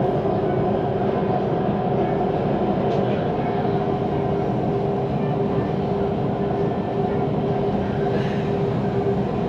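Inside a Siemens Inspiro metro train car running between stations: a steady rolling rumble with a constant hum at several fixed pitches, from the running gear and drive.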